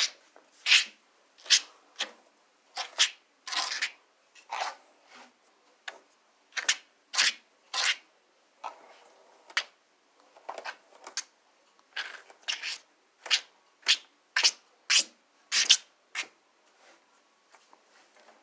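A comb drawn again and again through a toy horse's synthetic hair: short scratchy strokes, a little more than one a second, with a couple of brief lulls.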